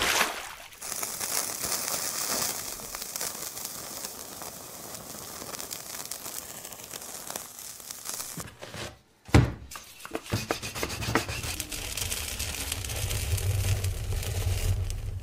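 Kitchen sound effects: a hissing rush over the first few seconds, a sudden break and a thud about nine seconds in, then a low rumble with scattered crackling.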